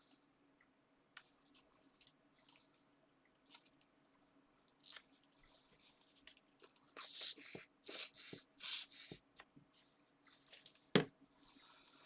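Paper and card being handled on a craft table: faint rustles and small taps, a run of short scratchy rustles about seven to nine seconds in, and a single sharp knock about eleven seconds in.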